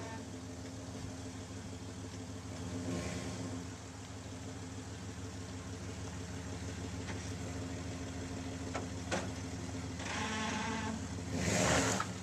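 Vehicle engine running steadily, with a sharp knock about nine seconds in and a louder rushing swell near the end.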